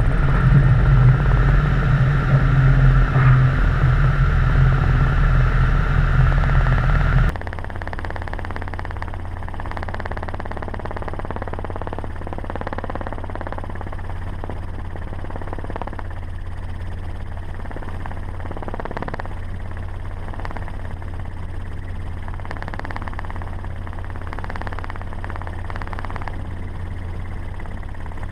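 Helicopter rotor and engine noise, then an abrupt cut about seven seconds in to the steady, quieter low drone of a truck engine running.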